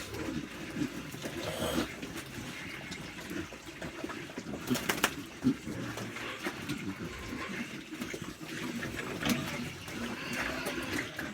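Pigs eating wet feed: irregular wet slurping and chewing, with a few sharper clacks about halfway through.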